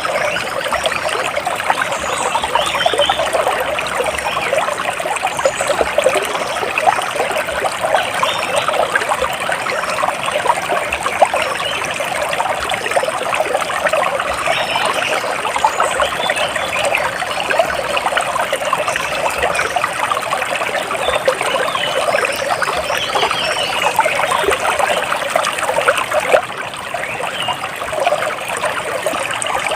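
Water trickling and splashing steadily, with faint bird chirps now and then above it.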